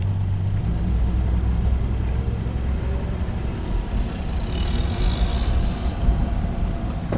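1962 Dodge Dart's slant-six engine running low and steady, heard from inside the cabin. A short hiss comes about five seconds in.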